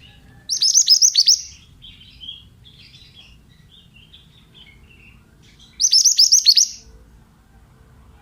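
Mantenan bird singing: two loud bursts of rapid, high whistled notes that sweep steeply downward, each about a second long and some five seconds apart, with softer scattered chirps between them.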